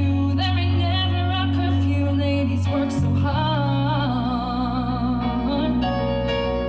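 A woman singing live over a backing track of bass and keyboard, holding long notes with vibrato in two phrases. Her voice stops about six seconds in, leaving the keyboard chords.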